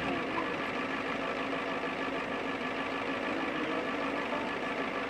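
1993 Ford F-350 dually's 7.3-litre IDI diesel V8 idling steadily.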